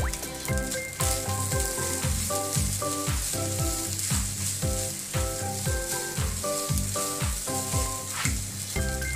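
Rice and vegetables sizzling in a hot wok while being stirred and tossed with a wooden spatula, under background music with a steady beat.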